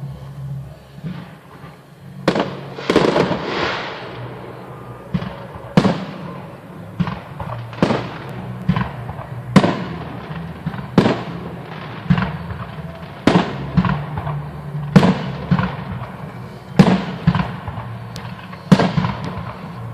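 Fireworks salute: aerial shells bursting one after another, a sharp bang about every one and a half to two seconds, with a denser crackling cluster about three seconds in.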